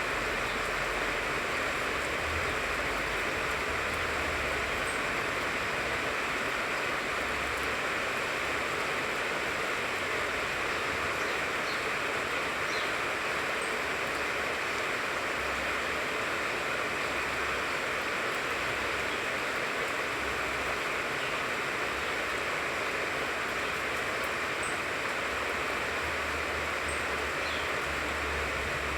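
Steady rain falling on the leaves of a tangerine tree, an even hiss that does not let up, with a low rumble coming and going underneath.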